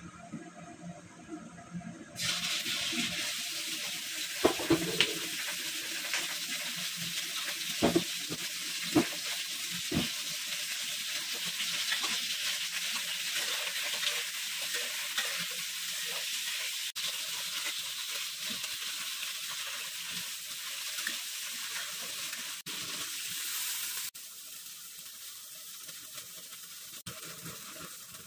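Chicken wing drumettes sizzling in hot oil in a wok. The sizzle starts about two seconds in as the meat goes in, with a few knocks and scrapes of a metal ladle against the wok, and it dies down a few seconds before the end.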